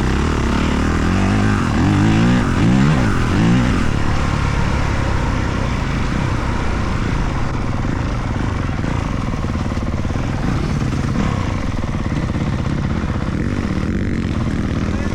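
Motocross dirt bike engines revving, the pitch rising and falling several times in the first few seconds, then a steadier mix of bike engine noise.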